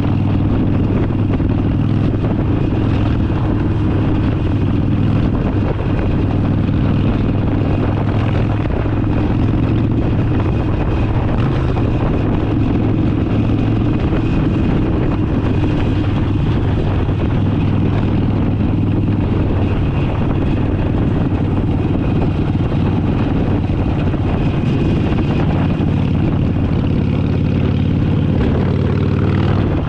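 Harley-Davidson Forty Eight's air-cooled 1200 cc V-twin running steadily at cruising speed, with no revving up or down.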